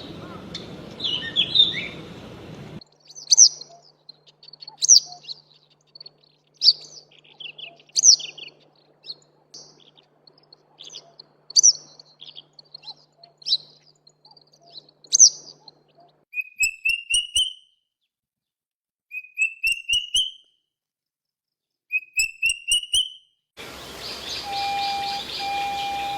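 Songbirds singing in a series of separate recordings cut one after another. First a bird repeats a short, loud song phrase about every one and a half seconds. Then another gives three rising trills a few seconds apart, with other calls at the start and near the end.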